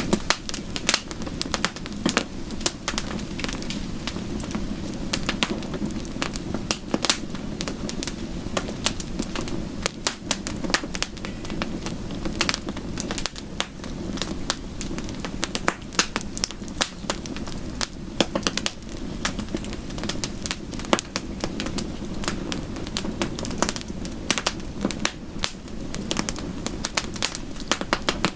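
Wood fire crackling, with frequent irregular sharp pops over a steady low rush.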